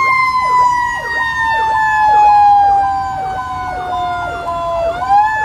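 Fire engine sirens on an emergency run: one long wailing tone slides slowly down in pitch and swings back up near the end, while a second, faster siren cycles about twice a second beneath it.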